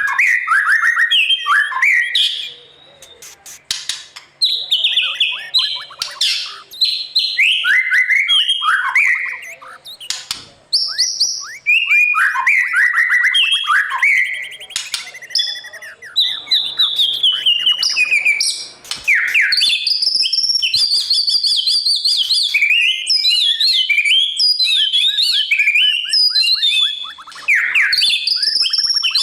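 White-rumped shama singing a long, varied song of quick whistled phrases, rising and falling notes and rapid clicking trills, with short pauses between phrases at first and almost unbroken song in the second half.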